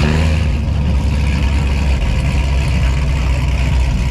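A car engine running with a loud, steady low rumble, with a brief rise in pitch near the start.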